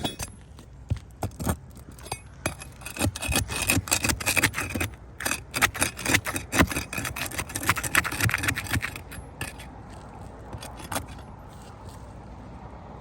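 Asphalt roof shingles being pried loose, their sealed tabs tearing apart and the prying tool scraping across the shingles. A dense stretch of scraping and cracking in the middle, then only a few scattered clicks near the end. The tearing seal is damaging the shingle beneath.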